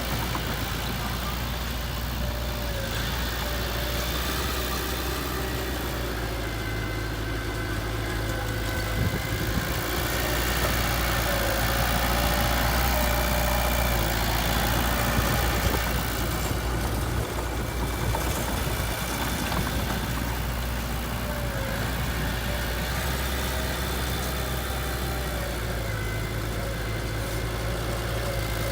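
Heavy machine's engine running steadily at low revs, a little louder for a few seconds midway.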